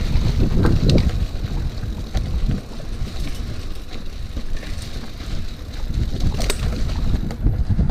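Mountain bike rolling over a dirt track, with wind buffeting the microphone, tyre rumble and scattered clicks and rattles from the bike.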